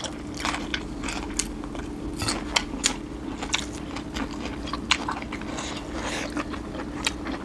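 Close-up eating sounds: irregular chewing and biting with short crisp crunches, as food is eaten by hand. A steady low hum runs underneath.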